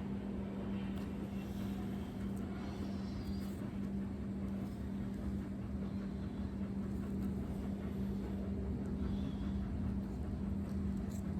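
Steady low machine hum with a constant pitched drone.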